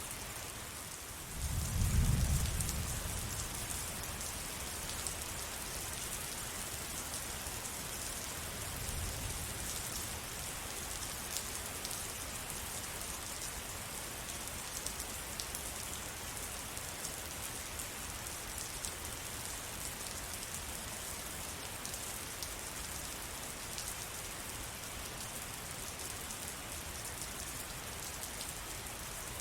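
Steady rain falling, a dense even hiss of drops pattering on surfaces. A low rumble swells in about a second and a half in and fades over the next couple of seconds, with a fainter one around nine seconds in.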